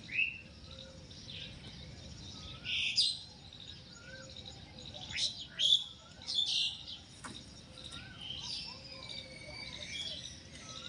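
Birds chirping and calling: loud short chirps every few seconds over softer repeated whistles, with a few brief clicks.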